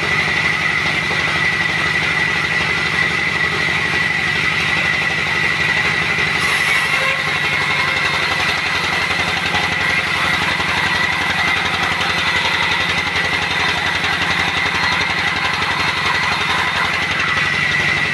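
Sawmill machinery running steadily: a rapid, even low pulsing like an engine, under a steady high whine.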